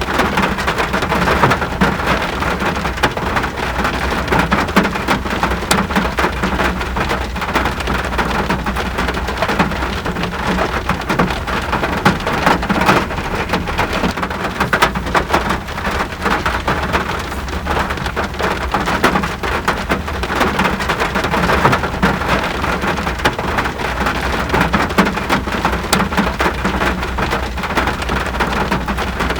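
Steady, heavy rain: a dense, even patter of countless drops hissing together, over a constant low rumble.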